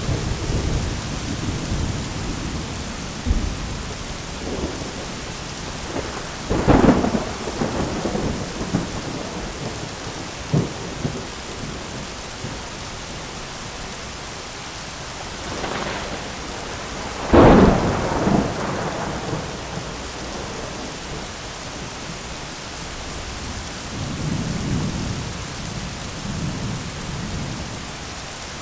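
Thunderstorm: steady heavy rain under rolling thunder, with two sharp thunder cracks, about 7 seconds and 17 seconds in, the second the loudest, and low rumbles early and near the end.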